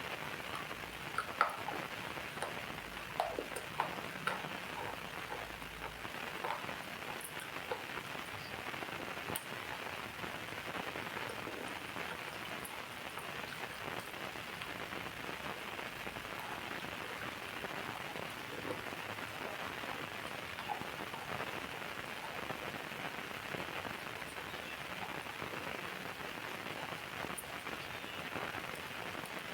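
Steady rain falling, an even hiss with scattered louder drop ticks that come most often in the first several seconds.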